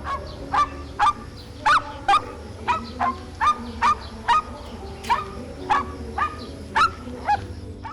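A bird calling in short, sharp repeated calls, about two a second.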